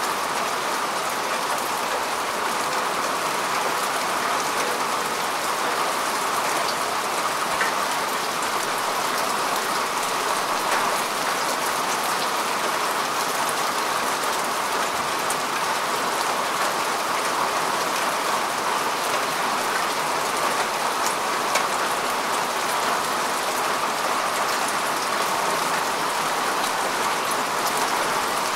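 Steady rain falling on earth and grass, an even hiss of countless small drop impacts with no letup.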